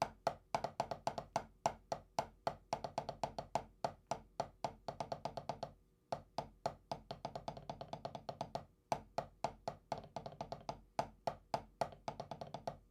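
Drumsticks playing short roll combinations: quick clusters of strokes in a repeating pattern, with a short break about six seconds in. Played too fast, without a metronome.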